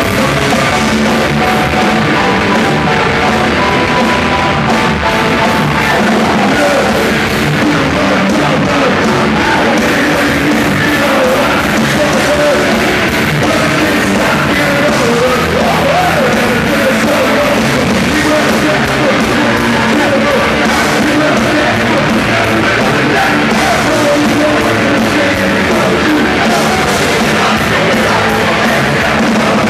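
A live rock band playing loud, with drums, guitars and singing.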